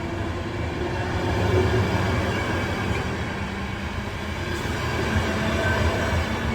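A train running past on the rails: a steady rumble of wheels and cars, with a low hum underneath.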